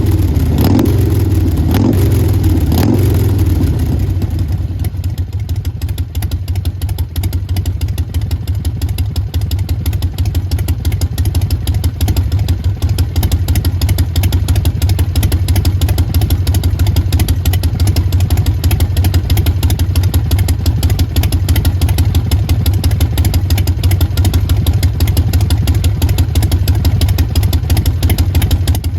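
Harley-Davidson Sportster Forty-Eight XL1200X's 1200 cc V-twin running through a Vance & Hines Big Radius exhaust: a few quick throttle blips in the first few seconds, then settling into a steady idle.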